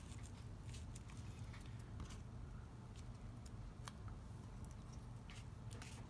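Faint ticks and light rustles of small paper pieces being handled and pressed into place, scattered irregularly, over a steady low electrical hum.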